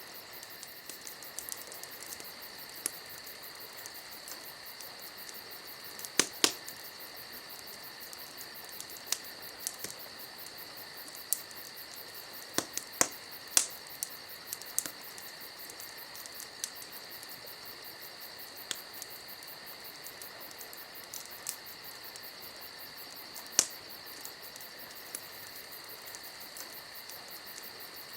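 Campfire crackling, with scattered sharp pops at irregular intervals, over a steady high insect chirring.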